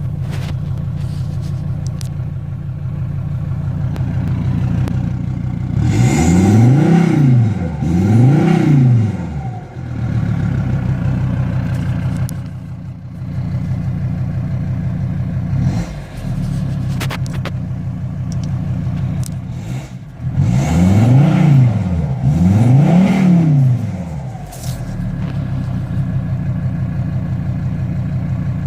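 Volvo XC90 D5's five-cylinder turbodiesel idling through an emptied particulate filter and a straight pipe with no muffler. It is revved twice in quick succession about six seconds in and twice more about twenty seconds in, the pitch rising and falling with each rev, then settles back to idle.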